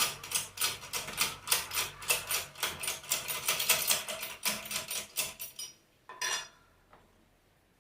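Quick, light metallic taps or clicks, about four or five a second, from work on an alternator's rotor and bearing. They stop about five and a half seconds in, with one more tap shortly after.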